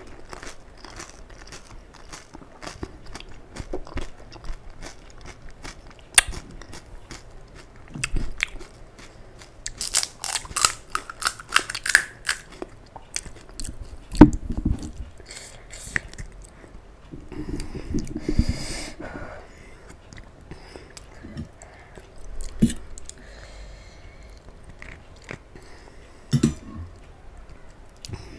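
Crisp panipuri (golgappa) puris, filled with spicy water, bitten and chewed with repeated crunching. The sharpest crunch comes a little past the middle.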